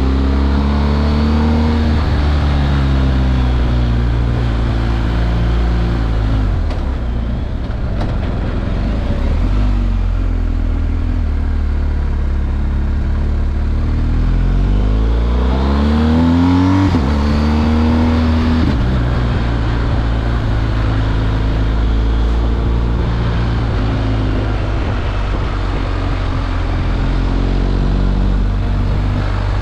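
BMW R1250 GS Adventure's 1254 cc boxer twin running through its stock exhaust. It holds a steady pitch, climbs through the revs, then drops sharply about seventeen seconds in, as at an upshift, and runs steady again.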